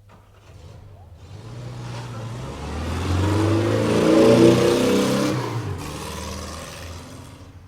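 Durmazlar Silkworm tram passing by: electric drive whine and running noise that swell to their loudest about four and a half seconds in and then fade away, over a steady low hum.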